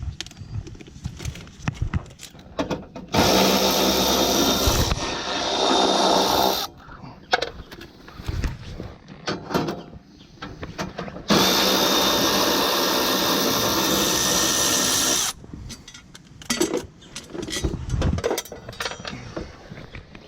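Handheld power drill running in two long steady spells, each a few seconds long, with small clicks and knocks of handling in between.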